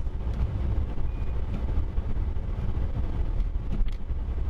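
Steady low rumble of a vehicle on the move, heard from inside the cab: engine and road noise.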